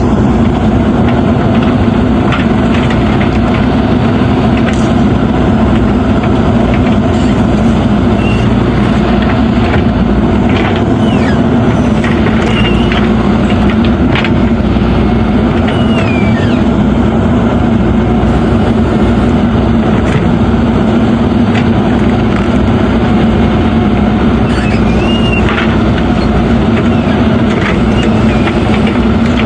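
JCB 3DX backhoe loader's diesel engine running steadily at a constant speed as the machine works, with a few light clicks and several short high squeaks.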